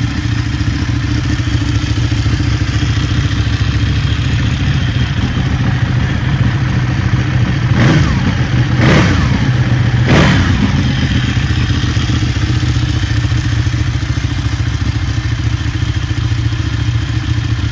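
Ducati 1199 Panigale's Superquadro V-twin engine idling steadily, blipped three times in quick succession about eight to ten seconds in, each rev dropping straight back to idle.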